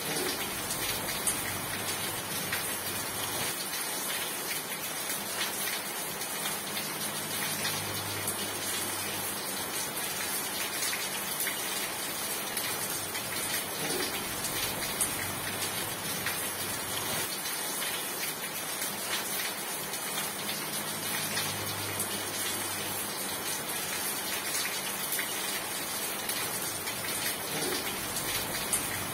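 Steady rain falling: a dense, even hiss with scattered sharper ticks of individual drops.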